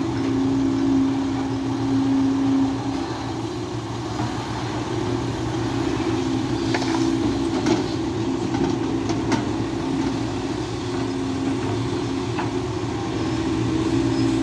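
SANY SY215C hydraulic excavator working under load, its engine and hydraulics running at a steady note that goes ragged through the middle as it digs, with a few sharp clanks of the bucket in the middle.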